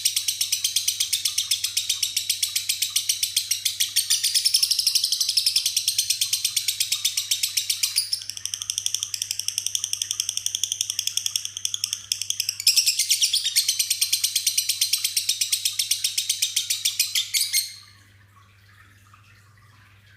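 A lovebird singing 'ngekek', one long unbroken chattering trill of rapid, high-pitched notes. The trill changes pattern for a few seconds in the middle and stops abruptly near the end.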